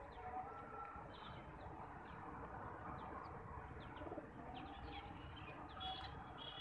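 Faint bird chirps and short calls, many brief chirps scattered throughout, with a slightly louder call near the end.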